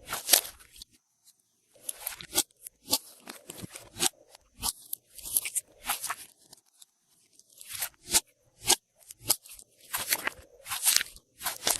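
Glossy slime being worked by hand as things are mixed into it: irregular crackling clicks and short sticky pops and squelches, with brief pauses between handfuls.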